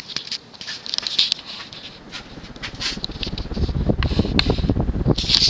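Ceiling fan with a 52-inch motor and short blades running on medium, with scattered light clicks and rustles over the first few seconds. From about three seconds in, the fan's draft buffets the microphone with a low fluttering rumble.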